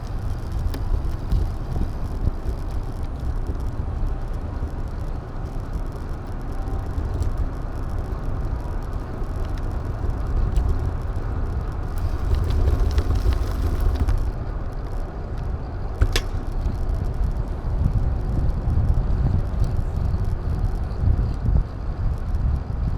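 Wind and road rumble on an action camera's microphone while riding, a steady low rumble, with one sharp click about two-thirds of the way through.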